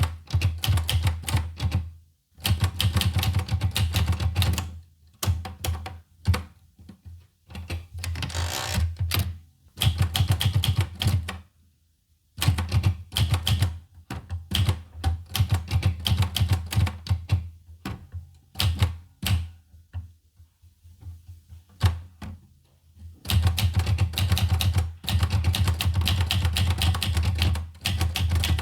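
Olivetti Lettera 25 manual portable typewriter being typed on: fast runs of key strikes in spurts, broken by short pauses and one longer lull of a few seconds in the latter half.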